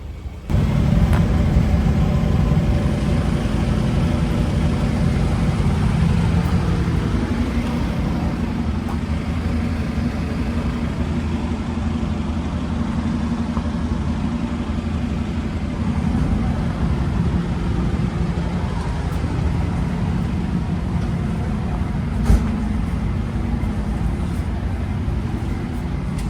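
A road vehicle on the move: steady engine and road noise, mostly low-pitched, with a single short knock near the end.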